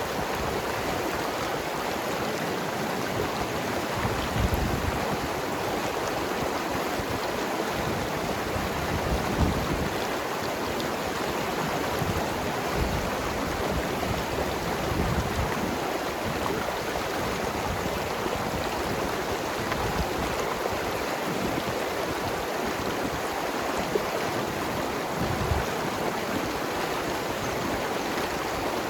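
Mountain river flowing steadily over rocks, a constant rushing with gurgles and small splashes now and then.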